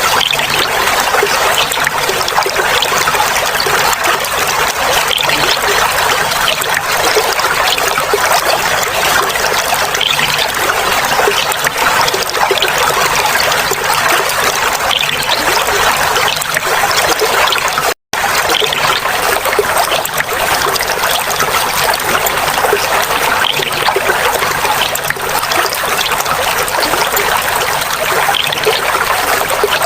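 Clear flowing water trickling and babbling steadily, with a split-second drop-out about eighteen seconds in.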